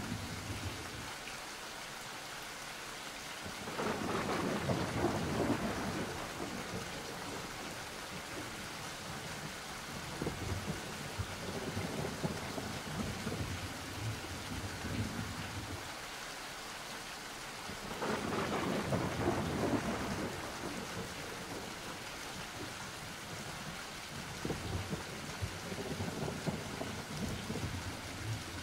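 Steady rain with rolling thunder: two long rumbles swell up, about four seconds in and again about eighteen seconds in.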